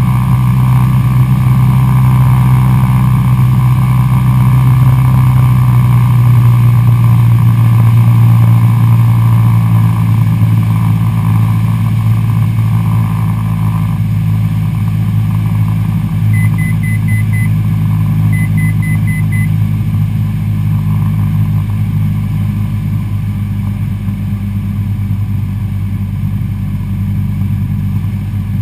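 Cessna 172SP Skyhawk's four-cylinder Lycoming engine and propeller droning steadily in flight, easing off a little in the second half. Two short series of quick electronic beeps come partway through.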